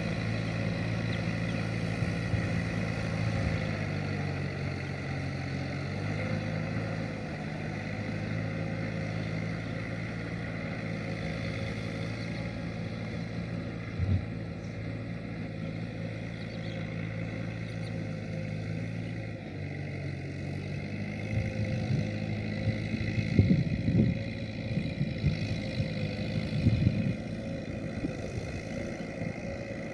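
Kubota M7040SU tractor's four-cylinder diesel engine running steadily while ploughing. Its pitch drops briefly about four seconds in and again around twenty seconds in. In the second half there is a run of loud knocks and clatter.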